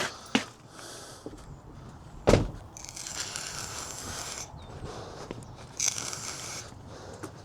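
Handling noises of someone working around a van: a few light knocks, one loud thump a little over two seconds in, and two stretches of rustling.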